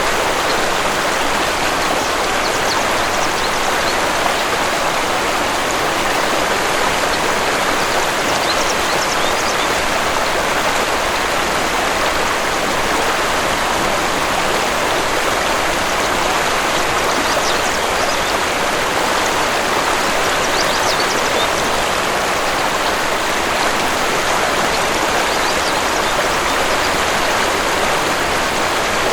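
Steady rush of a waterfall, falling water splashing evenly without let-up.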